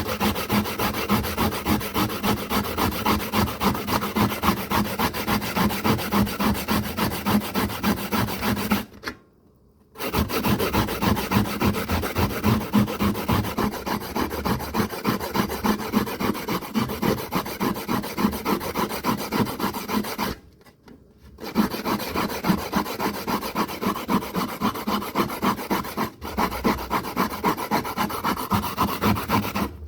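Rapid, rhythmic rubbing or rasping strokes, several a second, that stop for about a second twice.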